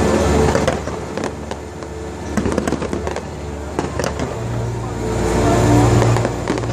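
Fireworks going off: a run of sharp bangs and crackles, with a low rumble setting in about four seconds in.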